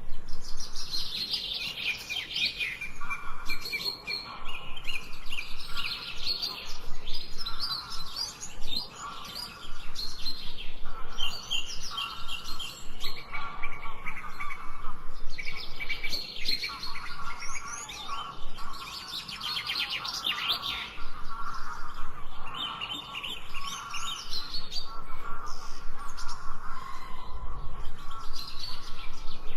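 Several birds chirping and singing at once, with quick high trills and chirps over a lower, repeated call that comes and goes.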